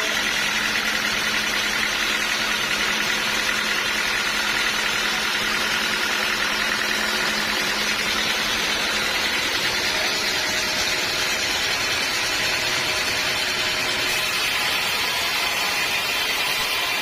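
Band sawmill running steadily: a continuous, even machine drone with a few steady whining tones.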